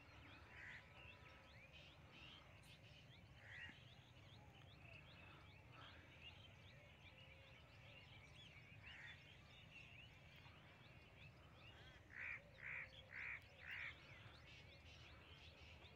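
Near silence with faint bird chirping in the background throughout. Near the end there is a run of four short, evenly spaced calls, about two a second.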